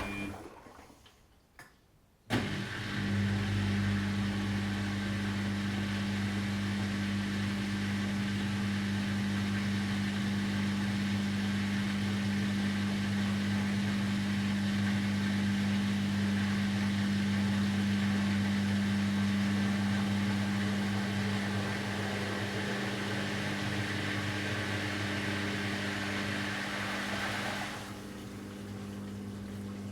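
Washing machine running, starting suddenly about two seconds in after a moment of near silence: a steady low motor hum under an even rush of noise. Near the end the noise drops away and the hum carries on.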